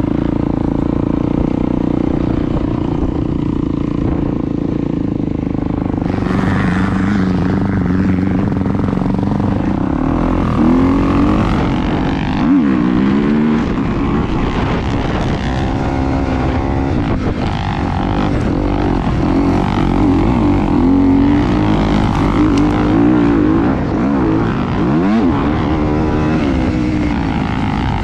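An engine running, its pitch rising and falling again and again as it revs or passes, over heavy low rumble from wind.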